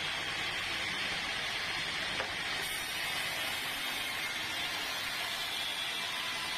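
Sawmill saw running steadily, a continuous even noise, with one short click about two seconds in.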